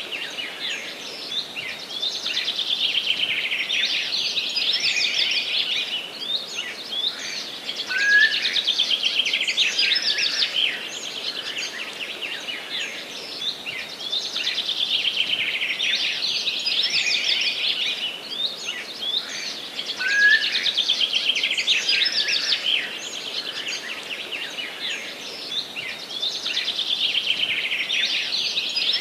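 A songbird singing the same fast, trilling phrase over and over, each phrase about three seconds long and repeated about every six seconds.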